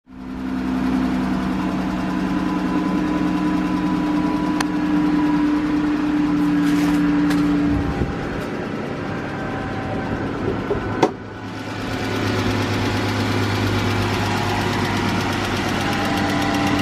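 2013 Chrysler 300's 3.6-liter VVT V6 engine running with a ticking sound that the owner likens to a lifter; the fault turns out to be a bad rocker arm bearing. The engine note shifts lower about halfway through, and there is one sharp click a few seconds later.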